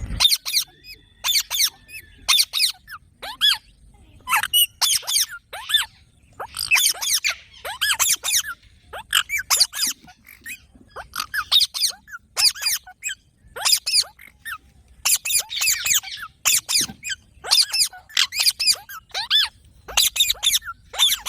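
Several green parrots calling, with short, high, squeaky chirps that each sweep quickly downward. The calls come in rapid bursts of several at a time, with brief gaps between bursts.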